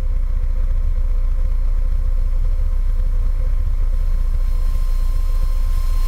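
Light airplane cockpit noise: a steady low drone of the piston engine and propeller. Near the end, airflow hiss and a thin steady whine grow louder.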